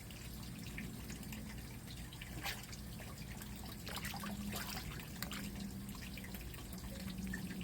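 Water dripping and trickling, with irregular single drips over a steady low background.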